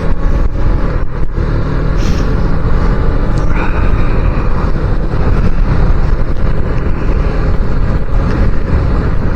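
Riding noise on a small Suzuki motorcycle: steady wind rush over the microphone mixed with the engine running, with a brief higher whine about two and three and a half seconds in.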